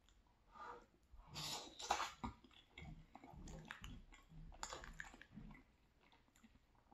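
Close-miked mouth sounds of a person chewing soft, cheesy penne pasta: faint, irregular chewing noises coming in uneven bursts.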